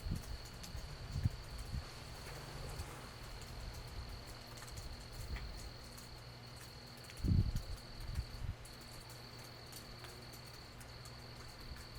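Night insects trilling in a steady high tone that breaks off briefly now and then, with faint scattered drips of rain. A short low thud comes about seven seconds in.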